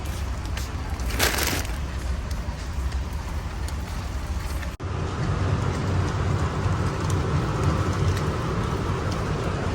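Steady low rumbling background noise with a brief hiss about a second in. About five seconds in it breaks off abruptly, then carries on with a faint steady high hum.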